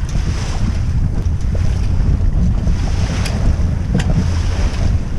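Wind buffeting the microphone in a heavy low rumble, over water rushing past a small sailing yacht's hull. A few sharp ticks stand out briefly about three and four seconds in.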